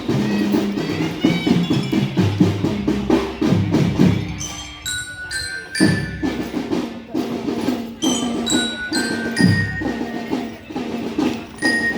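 Marching drum band playing: drums keep a steady repeating beat, and about four seconds in a bell-lyre (glockenspiel) joins with a ringing melody of short high notes.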